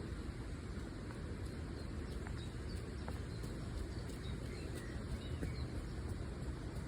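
Faint bird calls, a few short chirps, over a steady low rumble.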